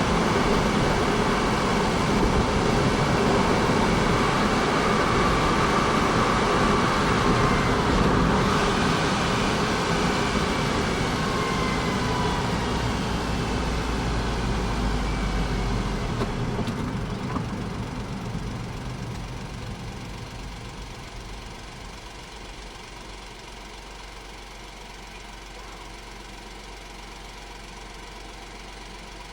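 Honda S660's turbocharged three-cylinder engine running, loud at first with a few gliding tones partway through, then fading over several seconds past the middle to a quieter steady sound.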